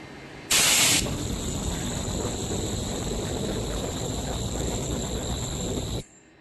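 Geocell ultrasonic welding production line running through a cycle. About half a second in comes a short, sharp burst of hissing air. Then a loud, steady machine noise with a high whine runs for about five seconds and cuts off suddenly.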